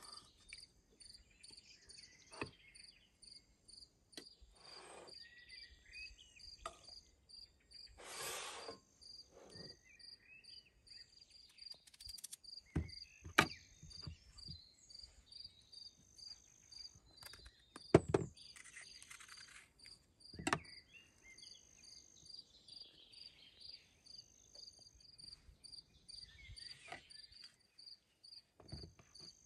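Crickets chirping in a steady, evenly pulsed rhythm, with scattered sharp knocks and clicks over it, the loudest about 13, 18 and 20 seconds in, and a short hiss about 8 seconds in.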